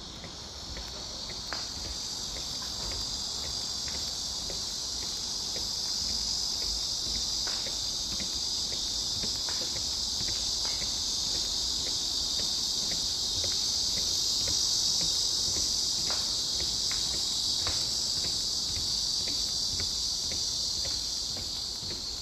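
Cicadas buzzing in one continuous high-pitched drone that swells gradually, peaks about two-thirds of the way through and eases off near the end, over faint regular footsteps on the trail.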